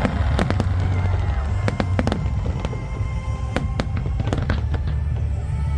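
Fireworks show: a rapid run of sharp crackling bangs and pops over a steady low rumble, with show music playing underneath.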